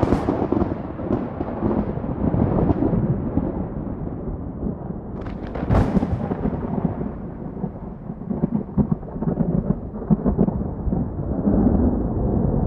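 Thunder: deep rumbling that carries on from a sharp clap, with crackles through it. A second sharp crack comes about six seconds in, followed by more crackling and a swell of rumble near the end.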